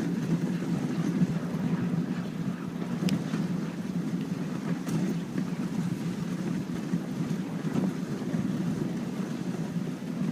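Dog sled running over snow: a steady rush of the sled gliding along, with wind buffeting the microphone.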